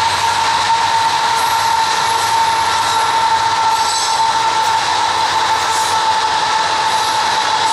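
Diesel locomotives of a loaded freight train passing close by, among them a BC Rail GE C40-8M cowl unit, with a loud steady whine held at one pitch over the running noise.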